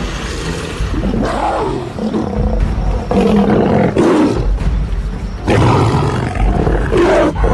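Lioness roaring and snarling in three long rough bouts, an aggressive threat display. Music plays underneath.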